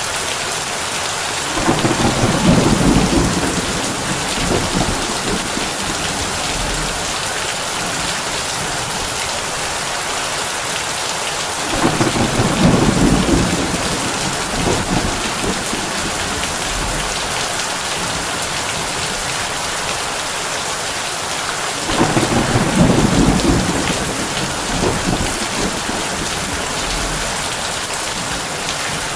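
Heavy rain hissing steadily on a tin roof, with three rolls of thunder about ten seconds apart, each swelling for two or three seconds and then dying back.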